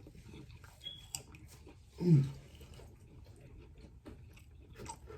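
Chewing and mouth noises of a person eating, with scattered small wet clicks. A short falling voice sound, like a brief hum, comes about two seconds in.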